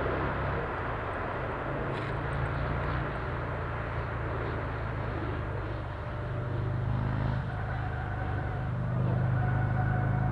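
Airbus A380 jet engines: a steady low rumble under a broad rushing noise, with a faint steady whine coming in and the level rising a little near the end.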